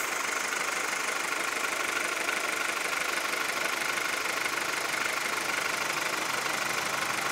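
2002 VW Golf 4's 1.4-litre 75 PS four-cylinder petrol engine running steadily with a diesel-like clatter, a noise the owner finds abnormal and is asking for help with.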